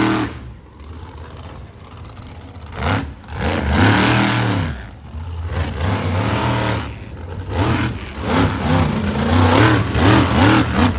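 Monster truck engine revving in repeated bursts, its pitch rising and falling; a quieter lull at first, a loud rev about four seconds in, then a quick run of throttle blips near the end.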